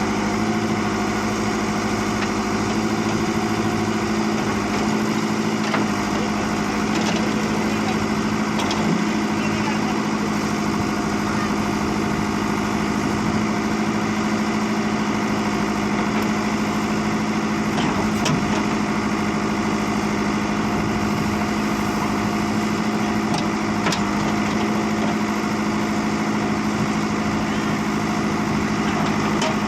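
Tractor diesel engine running at a steady speed, with a few faint knocks over it.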